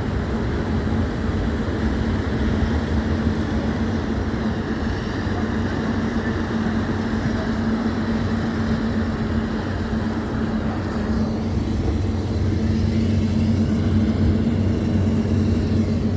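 Passenger ship's engine running steadily at cruising speed, a low, even drone under a steady rushing noise.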